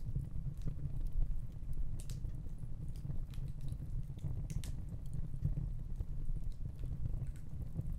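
Gas fireplace flames burning with a steady low rumble and occasional small crackles and ticks, two of them sharper, about two seconds and four and a half seconds in.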